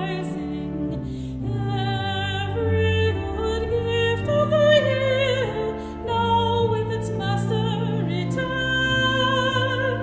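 Solo soprano singing a hymn with vibrato over sustained organ chords.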